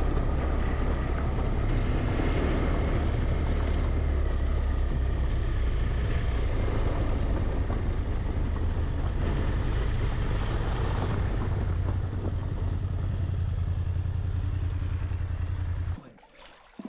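Motorcycle riding at road speed, its engine running under a heavy low rumble of wind on the microphone. The sound cuts off suddenly near the end.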